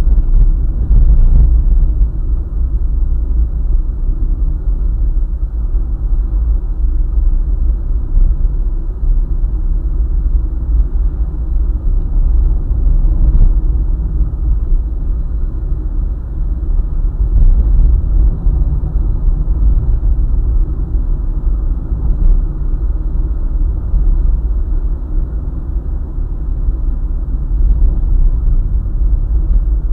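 Car driving along a highway: a steady low rumble of tyres on the road and the engine, with small swells in level.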